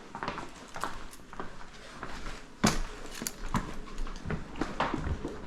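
Irregular footsteps and knocks on a hard floor, with the sharpest knock about two and a half seconds in.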